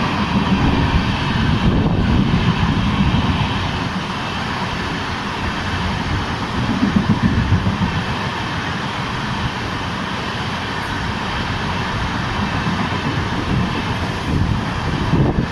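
Jan Shatabdi Express coaches passing at high speed behind a WAP-7 electric locomotive: a loud, steady rush of wheels on rail and air, swelling a little about seven seconds in.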